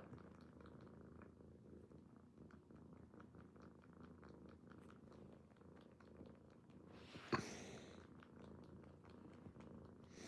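Six-month-old kitten purring faintly and steadily, with one brief louder rustle about seven seconds in.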